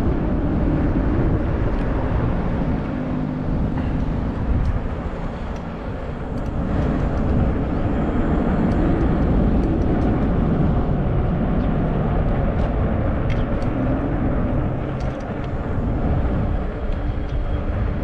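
Steady rumble of wind and rolling tyres from a Zota Zephyr 20-inch fat-tire folding e-bike being ridden, with no words over it.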